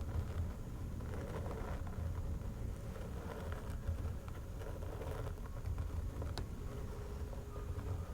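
Fingernails scratching over a person's head and back in repeated soft strokes, over a steady low rumble.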